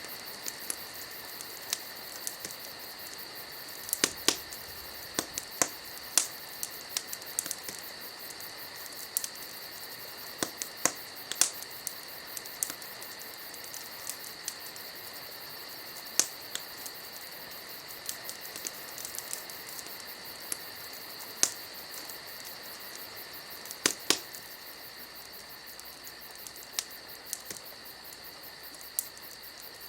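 Wood fire crackling: irregular sharp pops and snaps, a few louder ones every several seconds, over a steady hiss.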